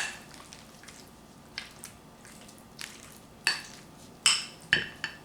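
A utensil clinking and knocking against a bowl while stirring, with a few sharp ringing clinks in the second half among fainter taps.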